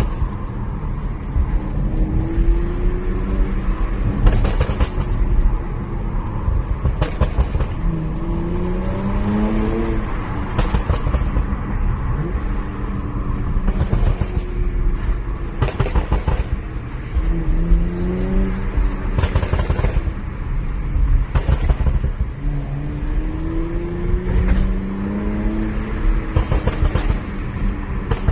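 Stage 1 tuned Porsche Macan S turbocharged V6 accelerating hard several times, its note rising through the revs on each pull. Between the pulls its exhaust gives out sharp crackles and pops.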